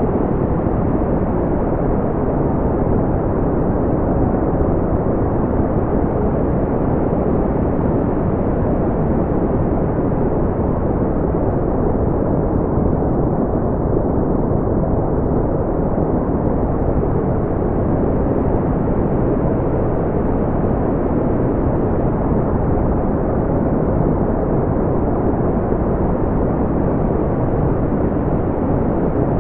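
Smoothed brown noise: a steady, deep, even rumble-like hiss, heaviest in the low end and rolled off in the treble, with no changes.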